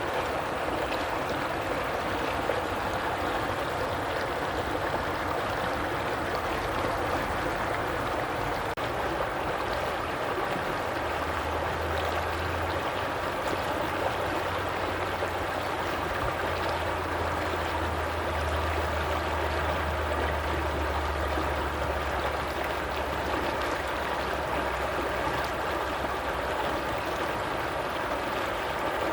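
Stream water flowing and babbling steadily. A low hum joins in about a third of the way through and fades out near the end.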